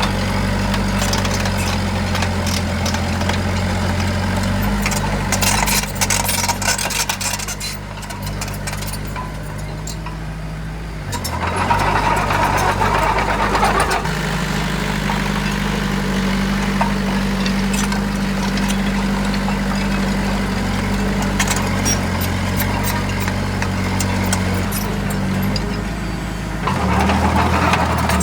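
Heavy diesel engine of a working machine running steadily, its speed shifting a few times. There is a patch of clatter about six seconds in and louder surges around twelve seconds and near the end.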